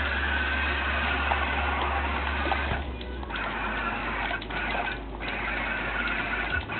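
Motors of a remote-controlled, Roomba-based robot running with a continuous mechanical noise over a steady low hum. The hum partly drops out about three seconds in, and the noise breaks briefly a few times.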